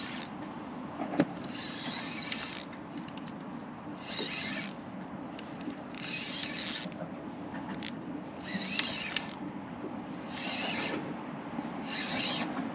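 Fishing reel being worked against a hooked jewfish: short bursts of reel noise every second or two over a steady low hum.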